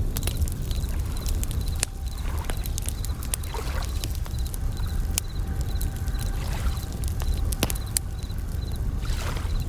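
Campfire crackling in sharp pops, with waves washing in every few seconds over a steady low rumble, and bell crickets chirping in short repeated high pulses.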